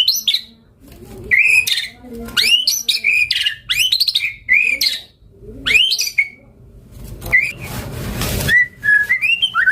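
White-rumped shama (murai batu) singing a series of loud, sharply rising whistled phrases with short pauses between them, broken by a brief hiss-like burst about eight seconds in.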